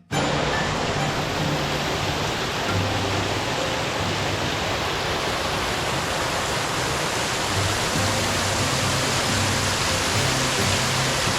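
Rushing water pouring over a waterfall or dam, a loud, steady hiss, with background music and its low bass notes underneath.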